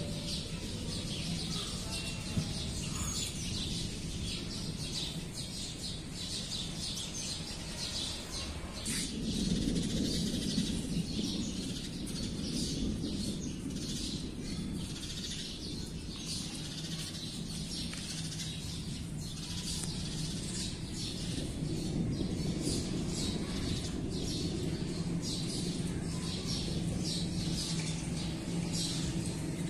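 Birds chirping over and over in the background, with a steady low hum underneath that grows stronger in the second half and a single sharp knock about nine seconds in.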